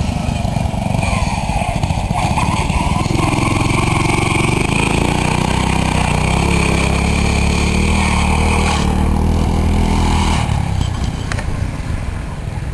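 Racing lawn mower's engine running hard, its pitch climbing over several seconds as it accelerates, then dropping and fading a little about ten seconds in as it backs off.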